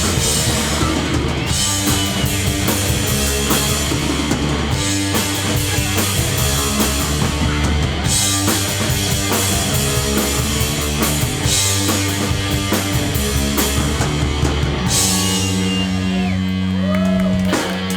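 Live hardcore punk band playing loud and fast, with drums and crashing cymbals. About fifteen seconds in, the cymbals drop out and a held chord rings on until the song stops near the end.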